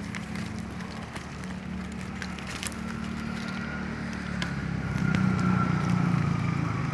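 Steady low engine hum that gets louder about five seconds in, with scattered small clicks and rustles.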